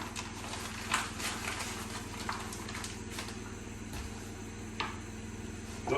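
A few faint, scattered taps and clicks of kitchen utensils over a steady low hum.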